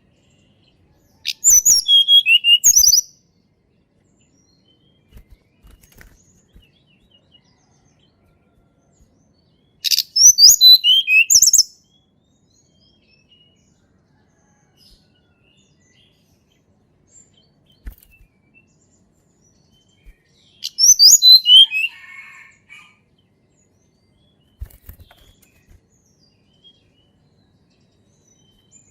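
Tledekan gunung singing three short phrases about ten seconds apart. Each phrase is a quick run of high whistled notes that falls in pitch.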